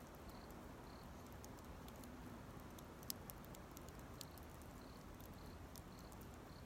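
Small campfire burning quietly, with sparse faint crackles and pops; the sharpest pop comes about three seconds in.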